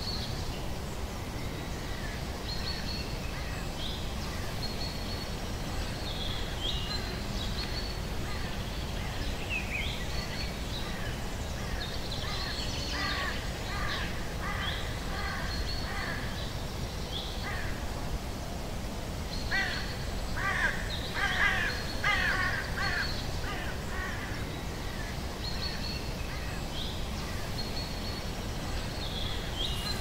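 Birds calling over steady low background noise: short high whistled notes recur throughout, and two runs of rapid repeated calls come about 13 seconds in and again around 20 seconds in, the second run the loudest.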